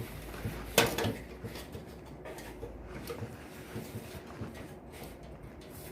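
Sliding shower door being worked along its track: a sharp knock about a second in, then light clicks and scraping.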